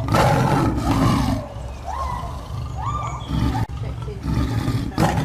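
Grizzly bears roaring in a run of loud, repeated bursts about a second apart, each with a rising and falling pitch.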